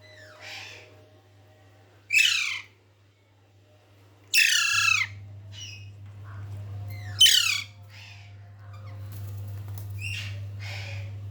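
Pet parrot squawking: about five loud, harsh calls a few seconds apart, each falling in pitch, over a steady low hum.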